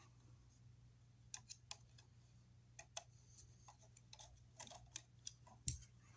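Near silence with faint, scattered clicks and small taps of an electrical outlet and its wires being handled and pulled out of a wall box, over a low steady hum.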